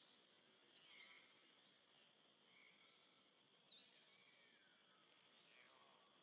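Faint birdsong over a quiet background: two quick dipping chirps and a few falling whistles.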